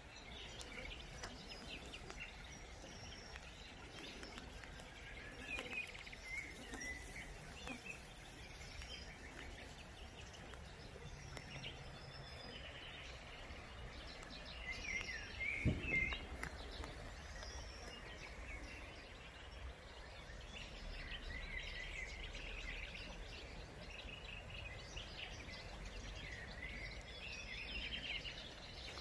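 Small birds chirping and calling on and off over a steady outdoor background hiss, with a single low thump about halfway through.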